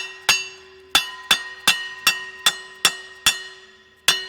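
Billet steel flex plate being tapped home onto the back of the crankshaft with a hammer: about ten light, even taps, each leaving the plate ringing like a bell, with a short pause before the last tap.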